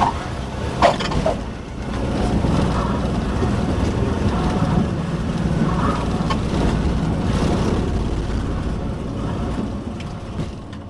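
Light airplane's engine and wind noise during final approach and landing, a steady rumble with a brief sharp sound about a second in. The noise tails off near the end.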